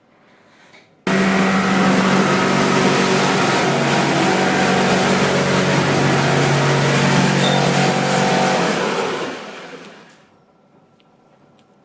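A motor-driven machine starts abruptly and runs steadily with a hum for about eight seconds, then fades out over about a second as it winds down.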